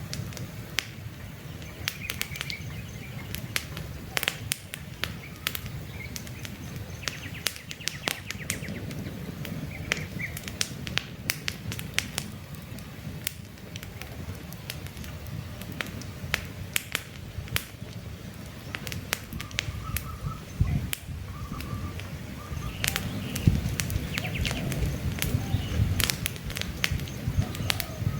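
Campfire crackling with frequent sharp pops over a low rumble of burning wood. Faint bird chirps come and go in the background.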